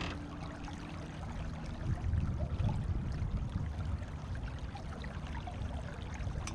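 Water splashing and trickling along the hull of a small sailboat under way, over an uneven low rumble.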